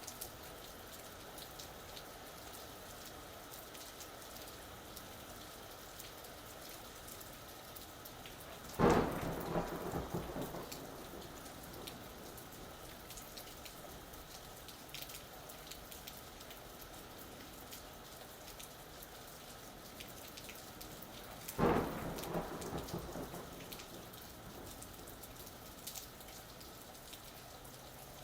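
Steady rain falling, with two claps of thunder, about nine seconds in and again some thirteen seconds later, each rumbling away over a couple of seconds.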